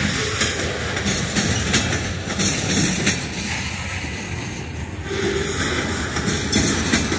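Loaded freight cars rolling steadily past at close range: a continuous rumble of steel wheels on the rails, with a few clicks as the wheels pass over rail joints.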